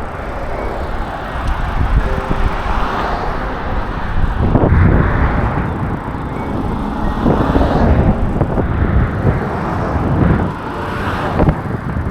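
Wind buffeting the microphone and road rumble during a bicycle ride along a sidewalk, a steady rushing noise that swells and fades several times.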